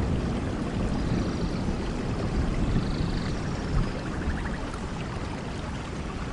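Vehicle driving on a road: steady road and engine rumble mixed with wind buffeting the microphone.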